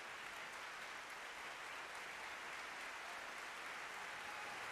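Concert-hall audience applauding steadily, a dense, even patter of clapping that calls the soloist back to the stage for a curtain call.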